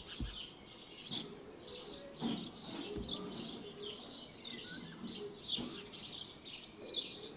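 Small birds chirping: many short, high calls, faint, one after another.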